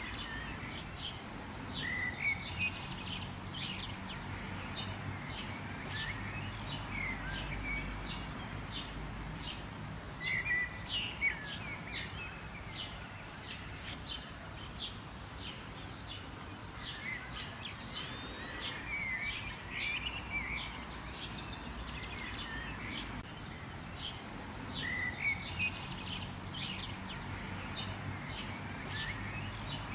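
Birds chirping and calling, many quick chirps and short whistles overlapping, over a steady low background rumble.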